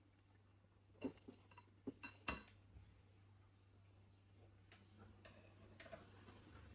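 Faint clinks and knocks of kitchenware being handled: a quick run of sharp taps, the loudest about two seconds in, then a few softer ones.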